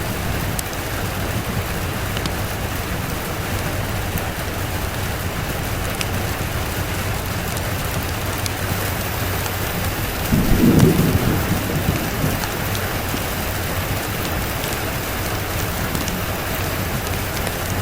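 Steady rain falling, with a short low rumble of thunder about ten seconds in.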